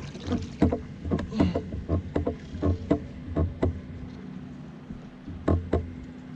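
Quick, irregular knocks and thumps on a kayak, about a dozen in the first four seconds and two more near the end, with a big catfish just landed aboard.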